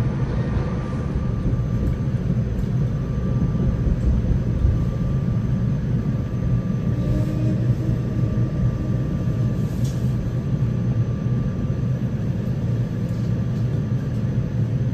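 Steady low rumble of a SEPTA Silverliner V electric multiple unit under way, heard from inside the passenger car, with a faint steady high whine running through it.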